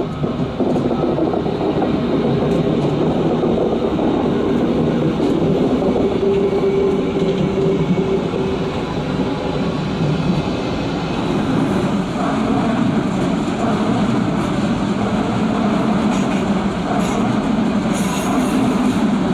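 Red DB regional electric multiple unit running past on the station tracks: a steady, loud rumble of wheels on rail, with a brief whine about six seconds in and a few sharp clicks near the end.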